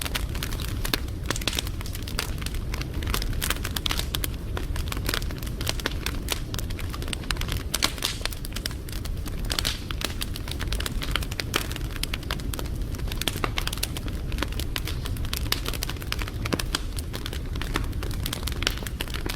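Wood fire burning, with dense, irregular crackling and popping over a steady low rumble of the flames.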